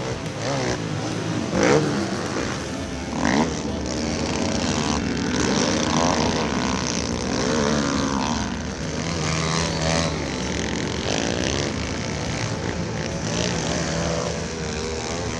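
Several small pit bike engines revving as they race, their pitch rising and falling over and over as the riders work the throttle and shift.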